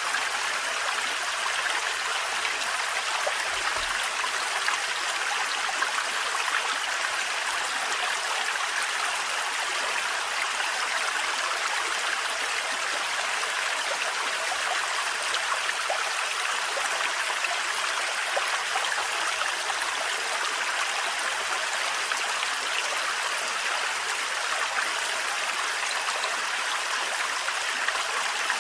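Thin forest waterfall: a steady, even rush of falling and splashing water.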